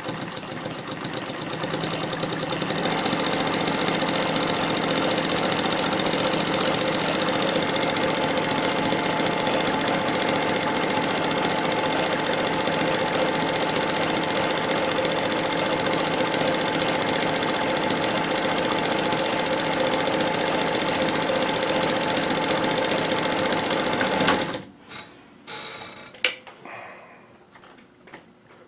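Bernina/Chandler 217 industrial sewing machine, driven by its servo motor, stitching a 3-stitch zigzag from its decorative cam at 6 mm width. It speeds up over the first couple of seconds, runs steadily for about twenty seconds, then stops suddenly, followed by a few light clicks.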